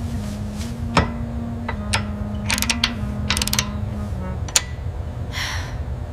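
A string of sharp mechanical clicks and ratcheting snaps, some in quick clusters in the middle, over soft background music, with a short hiss near the end.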